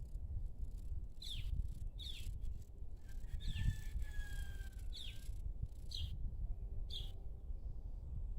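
Evening outdoor ambience: a bird gives short, sharply falling chirps about once a second, and a steady whistled note is held for about two seconds near the middle, over a constant low rumble.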